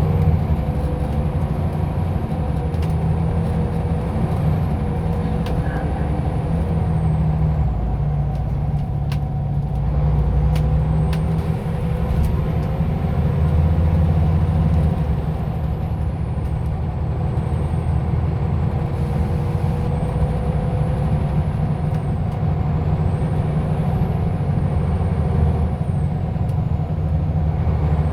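Scania OmniLink CL94UA articulated city bus under way, its engine running steadily with the pitch rising and falling as it pulls away and slows. A faint high whine glides up and down with it.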